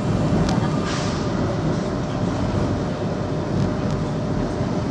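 Metrovalencia metro train running, heard from inside the car as a steady low rumble with a few faint clicks from the wheels and track.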